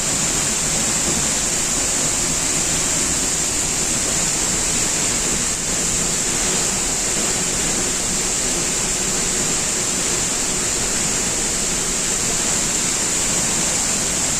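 Waterfall: a steady, loud rush of falling water with a strong hiss, unbroken throughout.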